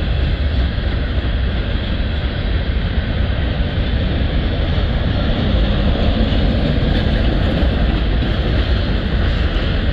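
Covered hopper cars of a long freight train rolling past, a steady wheel-on-rail noise with a deep rumble.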